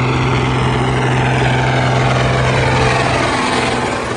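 Tractor engine running steadily at a constant speed, with a strong, even drone.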